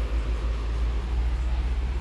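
Strong, gusty wind buffeting the microphone: a heavy low rumble that swells and dips.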